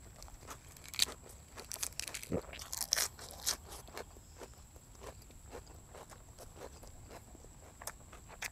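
A person chewing crunchy raw vegetables close to a clip-on microphone. The crisp crunches come thick and fast over the first few seconds, then thin out to occasional quieter crunches.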